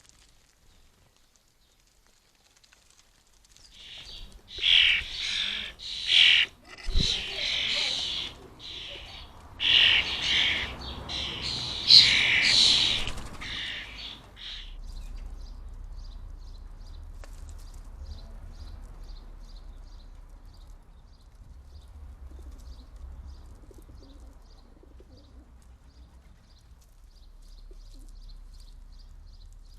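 Small garden birds chirping: a loud run of high, rapid chirps in bursts for about ten seconds, then fainter quick repeated chirps.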